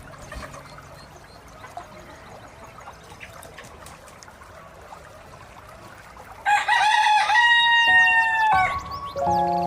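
A rooster crows once, loudly, for about two seconds, after several seconds of faint background sound. Music begins just before the end.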